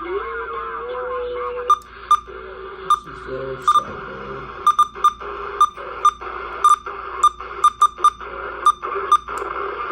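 Barecat 980 SSB CB radio's receiver audio: band-limited hiss with a steady whistling tone. About two seconds in, a string of short, sharp key beeps starts, irregularly two or three a second.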